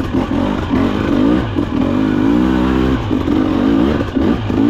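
Husqvarna TE300 TBI's fuel-injected two-stroke engine under riding load, its revs rising and falling again and again as the throttle is worked.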